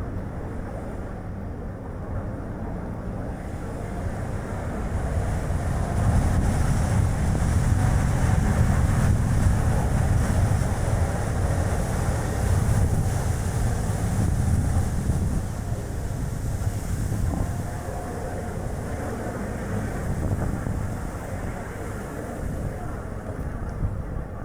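Strong, gusty wind buffeting the action camera's microphone over the tyre and road noise of a Chevrolet Spark city car on the move. The low rumble builds about six seconds in and eases somewhat after about sixteen seconds.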